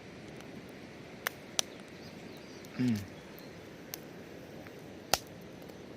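Quiet outdoor background hiss with a few sharp clicks and one short low sound falling in pitch about halfway through.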